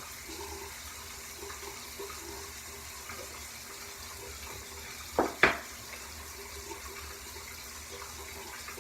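Steady rushing hiss, with two sharp clicks close together about five seconds in.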